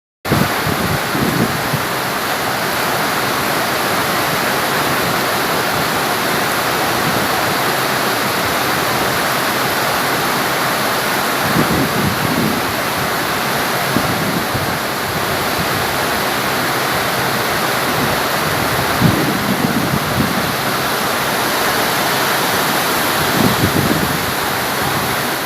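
Heavy tropical downpour: a loud, steady rush of pouring rain and running water, with a few brief low rumbles along the way.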